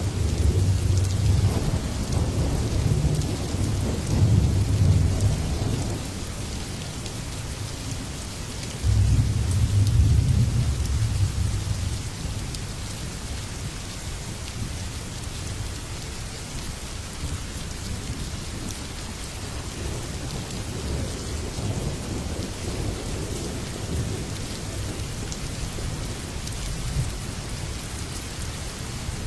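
Steady rain falling, with low rolling thunder rumbling at the start and again about nine seconds in, then only faint distant rumbles under the rain.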